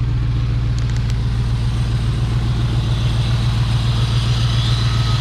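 Fuel-injected 5.7-litre Hemi V8 in a Ford F100 on a Dodge Ram chassis, idling steadily just after starting, with an even low pulse. A faint high whine comes in toward the end.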